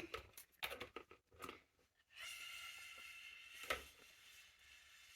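Faint soapy crackles and small pops, then from about two seconds in a steady airy hiss of breath blown through a straw into bubble solution, building a foam of tiny bubbles, with one sharp pop or click midway.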